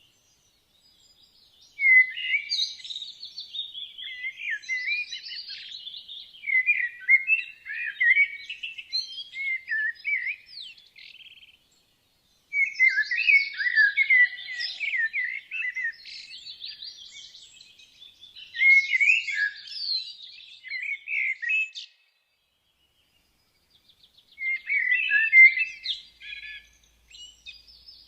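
Woodland songbirds singing rapid, varied chirping phrases in three long runs, separated by brief pauses about a third and two-thirds of the way through.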